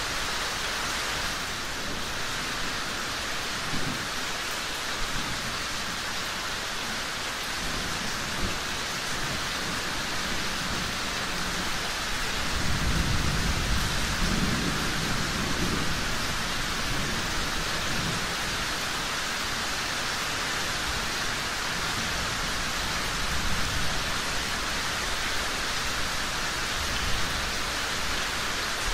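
Steady heavy rain hissing, with a low roll of thunder rumbling for a few seconds around the middle.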